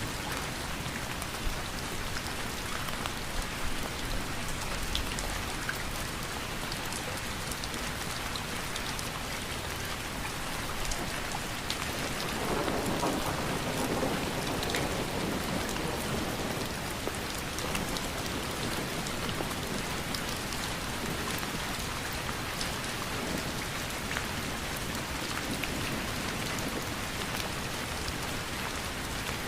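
Steady rain falling, with many separate drops ticking through the hiss. About twelve seconds in, a low rumble swells for a few seconds and fades.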